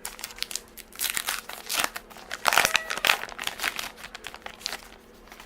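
A baseball card pack's wrapper crinkling and tearing as it is ripped open by hand, loudest about halfway through.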